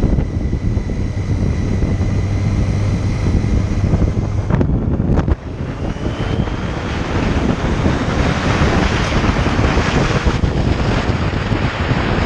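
Motorcycle engine running at a steady note under heavy wind rush on the microphone while riding. About five seconds in there is a brief dip with a couple of sharp clicks, after which the wind rush grows louder.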